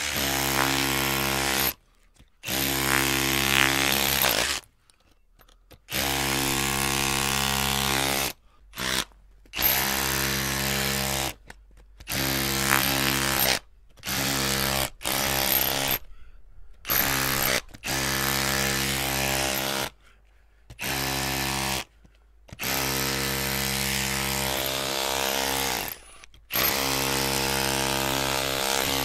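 Electric drill run in about a dozen bursts, each from half a second to about three seconds long, with short silent gaps where the trigger is let go. Each burst is a steady motor whine.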